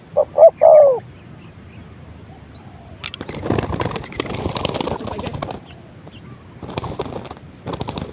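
A spotted dove coos once at the start, a short run of notes ending in a longer arched coo. A few seconds later comes a flurry of wing flapping lasting about two and a half seconds, with two shorter bursts of flapping near the end.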